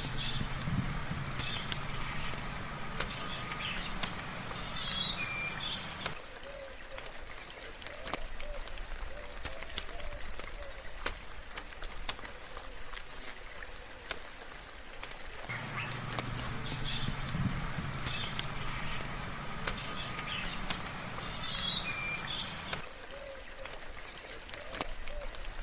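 Birds chirping and calling over a soft, steady patter of rain, with scattered sharp drips. The same stretch of sound repeats about every sixteen seconds, with a low hum under the birds for several seconds each time.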